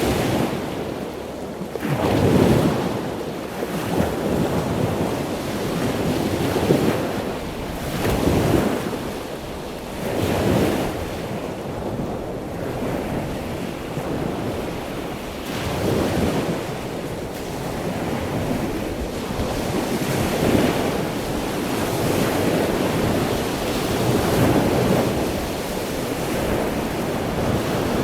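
Small sea waves breaking and washing up on the beach, the rushing hiss swelling and falling back every two to four seconds.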